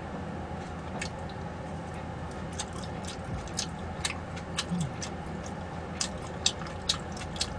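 Eating sounds close to the microphone: irregular wet mouth clicks and smacks from chewing food, over a steady low background hum.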